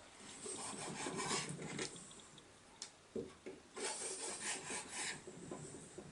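Rasping, scraping strokes of kitchen food preparation, in two spells of about a second and a half each, with a couple of sharp knocks between them.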